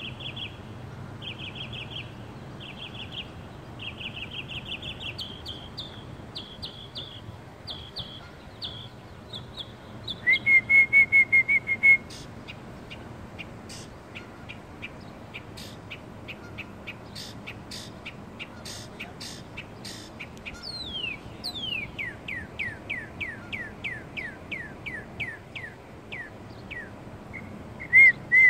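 A songbird singing a long, varied song: repeated high trilled phrases, a loud rapid trill about ten seconds in, then a quick series of falling whistled notes in the second half.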